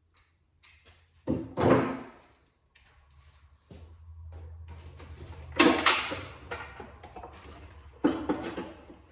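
Knocks and scrapes of car parts and tools being handled, in three louder bursts about one, five and a half and eight seconds in, over a steady low hum.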